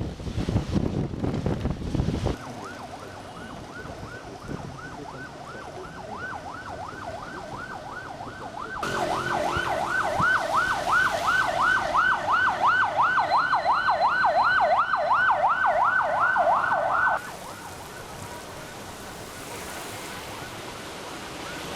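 Wind buffeting the microphone at first, then an emergency vehicle siren in a fast yelp, sweeping up and down about three to four times a second. It is faint at first, turns much louder about halfway through, and cuts off suddenly some seconds before the end.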